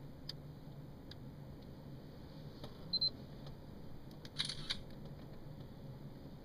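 A camera's short high beep about three seconds in, then a brief shutter release about a second and a half later, with a few faint clicks around them.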